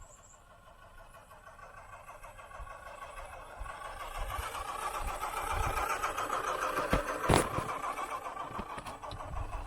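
Radio-controlled truck's motor running with a steady whine that grows steadily louder, with a sharp knock about seven seconds in.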